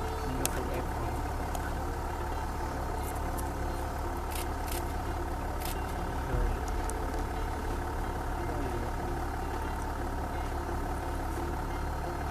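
Vehicle engine idling with a steady low hum, with a few faint clicks and a brief low thump about halfway through.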